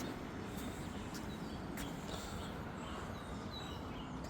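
Short, scattered bird chirps over steady outdoor background noise, with a few faint clicks.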